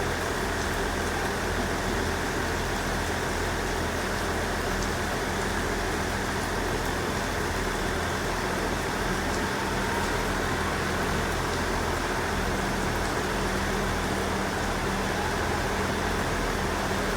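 Class 166 Turbo diesel multiple unit running steadily with a low, even engine hum, under heavy rain that hisses steadily.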